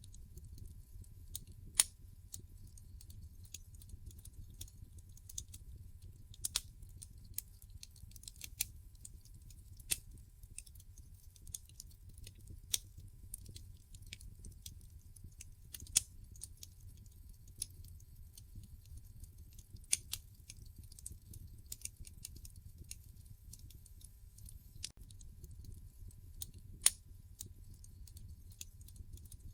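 Wood fire crackling in a fireplace: irregular sharp pops and snaps, a few much louder than the rest, over a low steady rumble of the burning logs.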